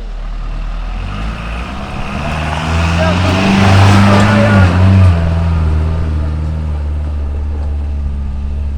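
Truck engine running, revving up over a few seconds and then falling back to a steady run.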